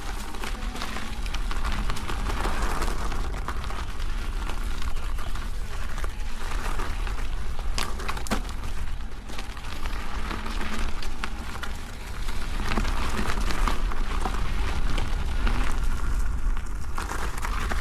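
Electric unicycle riding over a dirt trail: the tyre crackling on the ground under a steady rumble of wind on the microphone, with a couple of sharp clicks about eight seconds in.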